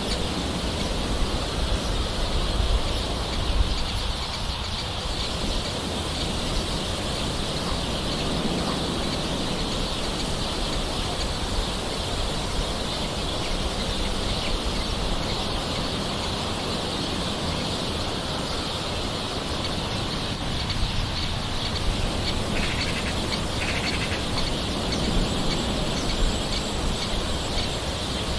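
Steady soft rain falling, with birds calling over it.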